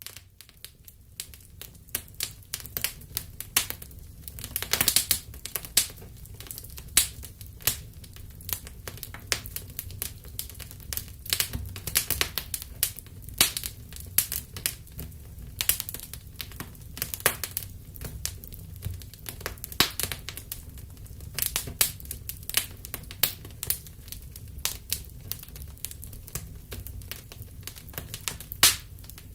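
Wood fire burning in a fireplace: constant irregular crackling and sharp pops over a low steady rumble of the flames.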